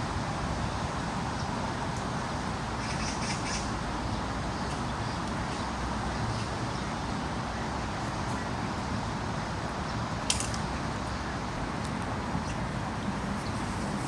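Heavy rain falling steadily in a forest, an even hiss. A few brief high chirps sound about three seconds in, and a single sharp tick comes about ten seconds in.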